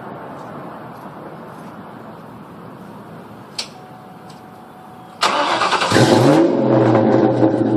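2001 Ford Mustang GT's 4.6-litre V8 started through a Flowmaster exhaust: after a single sharp click, the starter cranks briefly about five seconds in, the engine catches with a quick rise in pitch and settles into a loud, steady idle.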